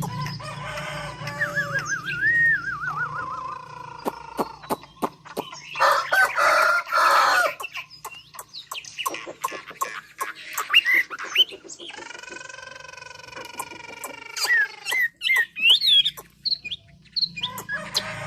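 Chinese hwamei (họa mi) singing a long, varied song of clear whistles, warbling trills and rapid clicking notes, with sharp upswept notes near the end.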